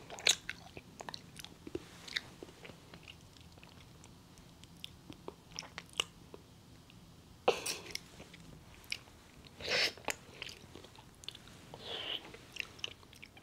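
Close-up chewing and mouth sounds of someone eating a whisky-filled chocolate. There are scattered soft clicks and smacks, with a few louder noisy moments in the second half.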